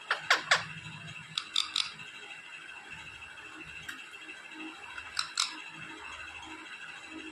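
Pet parrot giving short, sharp squawks: three quick falling calls at the start, a few more about a second and a half in, and two more about five seconds in.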